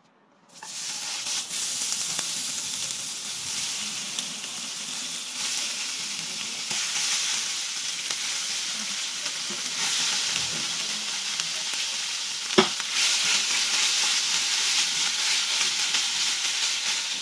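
Chhena (fresh cheese curd) sizzling in a hot nonstick frying pan as it is broken up and stirred with a spatula: a steady hiss that starts suddenly about half a second in. A single sharp knock about two-thirds of the way through.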